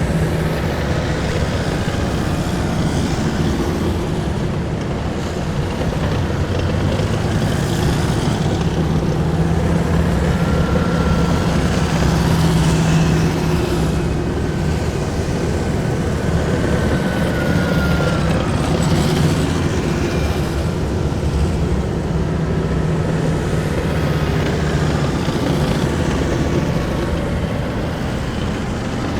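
Column of heavy military vehicles driving past in a steady stream: a deep continuous engine drone, with a few thin high whines sliding slightly down in pitch midway through.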